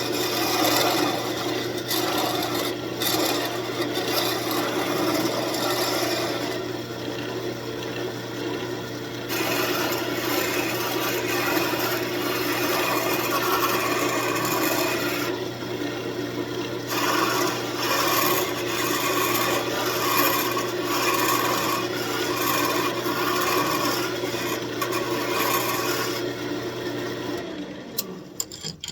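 Wood lathe running with sandpaper rubbing against the spinning walnut workpiece, the motor humming steadily underneath. The hum and rubbing stop near the end as the lathe is switched off.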